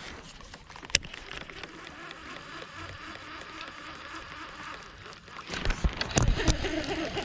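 Sounds on board a fishing kayak on the water: a steady low background noise, a single sharp knock about a second in, then a cluster of louder knocks and rustles from about five and a half seconds.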